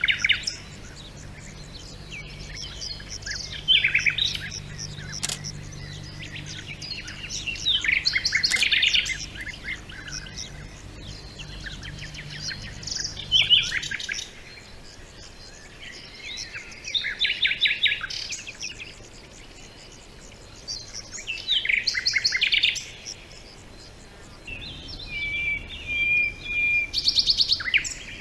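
Songbirds singing: short, fast trilled phrases repeating every few seconds.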